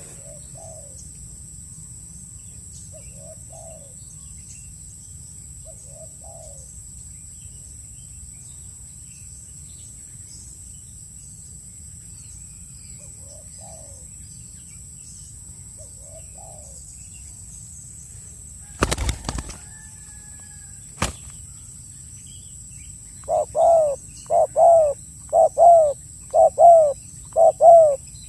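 Spotted doves cooing, faint and spaced out at first. About nineteen seconds in comes a brief flurry of flapping wings, then a sharp click, and near the end a close dove coos loudly, about once a second. A steady high insect drone runs underneath.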